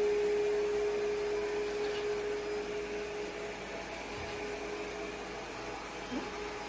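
ECOVACS Deebot T50 Omni robot vacuum running with a steady whir. A steady tone over it fades out about a second and a half in.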